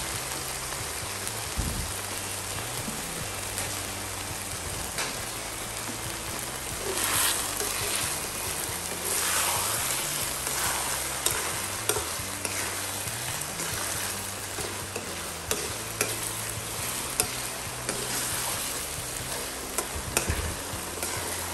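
A wet stuffing mixture of flaked milkfish, carrots and potatoes sizzling in a nonstick wok over a gas burner while a metal spoon stirs and scrapes through it, with sharp clinks of the spoon against the pan now and then.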